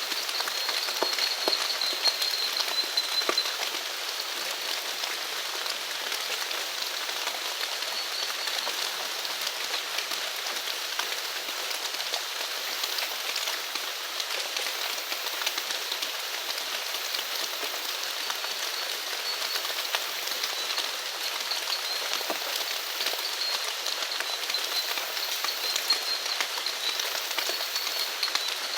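Steady rain falling, a dense even hiss with many individual drops ticking on surfaces. A thin, high-pitched wavering animal call comes and goes over it, at the start, around eight seconds in, and again through the last third.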